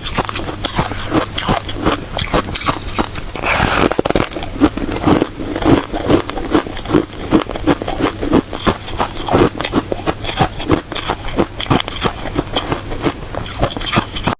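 Close-up crunching and chewing of shaved ice, sharp crunches several times a second, with a longer scraping noise about three and a half seconds in.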